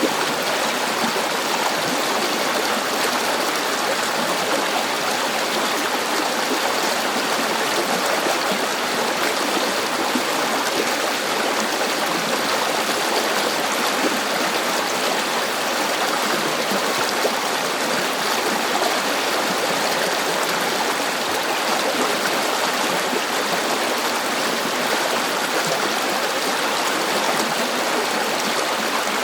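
River water flowing steadily over rocks, a continuous rushing and babbling without breaks.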